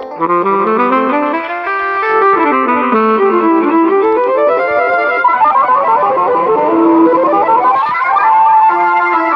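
Electronic arranger keyboard playing a melody on one of a custom set's instrument voices: quick runs of single notes, then long slides down and back up in pitch from about halfway through.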